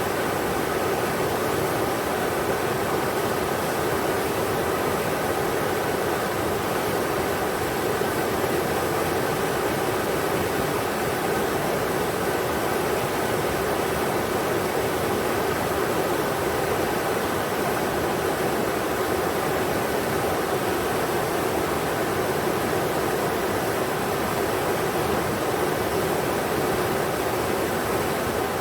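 Englishman River rushing over rocks: a steady, even roar of flowing water that doesn't change.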